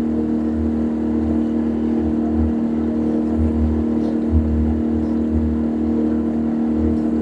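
Boat engine running with a steady drone, heard on board, with an uneven low rumble underneath.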